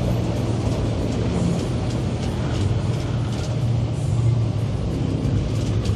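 Car engine running with a steady low rumble that swells slightly now and then.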